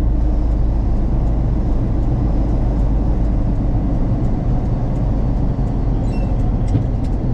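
Cab sound of a 1974 Ford F-100's 390 big-block V8 running steadily under way, with drivetrain and road rumble, while the truck pulls on its front axle alone in four-wheel drive because something in the rear drive has stripped. A few faint ticks come near the end.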